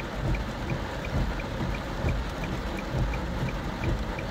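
Heavy rain falling on a car's roof and windshield, heard from inside the cabin, with a deep uneven rumble. A faint steady ticking runs under it, about three ticks a second.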